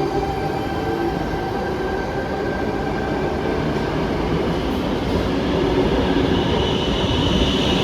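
Passenger train moving along the platform rails: a steady rumble with a few held tones, and a high-pitched wheel squeal building over the last couple of seconds.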